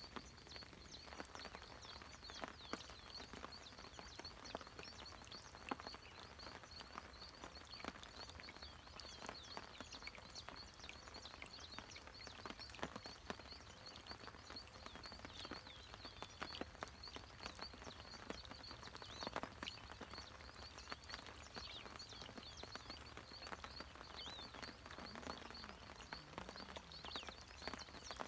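Faint outdoor evening ambience: many short high chirps from small animals repeating throughout, with scattered light ticks.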